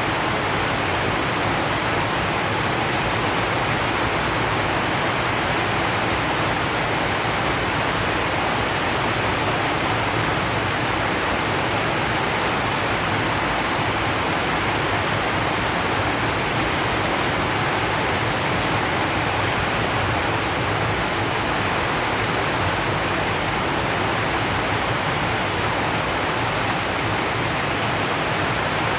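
Steady heavy rain on a zinc sheet roof, an even hiss with no distinct drops standing out.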